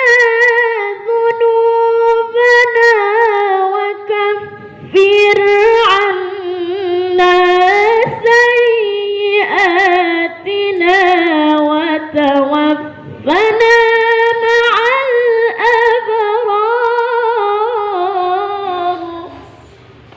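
A young qari's high, clear voice reciting the Qur'an in melodic tajwid style, drawing each phrase out with long ornamented runs and pausing briefly for breath several times. The voice stops near the end.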